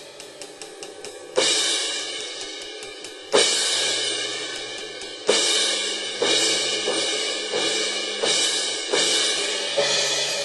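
Sampled crash cymbals from a 2Box electronic drum module, triggered from cymbal pads. Light quick taps come first, then three hard crashes about two seconds apart, each ringing out and fading, then a run of quicker, lighter hits. This tests how sensitive the cymbals' edge triggering is.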